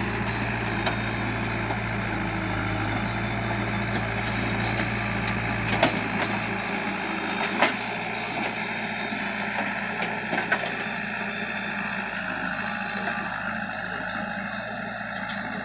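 Heavy vehicle engine running steadily; its low hum drops away about six seconds in, and a few sharp knocks or clanks sound over it.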